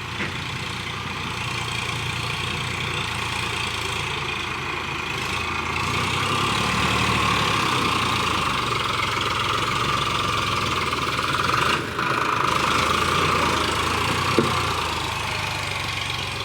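Tractor diesel engine running steadily, growing louder about six seconds in as it takes on more throttle or load, with a brief dip near twelve seconds.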